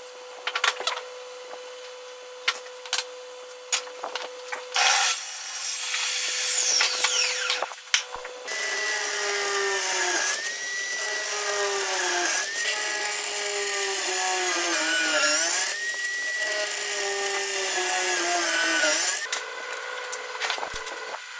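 Electric power-tool motor cutting wood, its whine sagging in pitch and recovering every few seconds as it bogs under the cut. Before it starts there is a faint steady hum with scattered taps and clicks.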